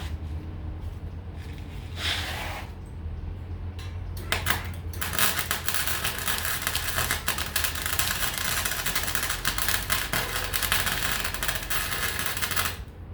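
Electric welding arc crackling: a short burst about two seconds in, then a continuous crackling weld for about eight seconds that stops abruptly, over a steady low hum.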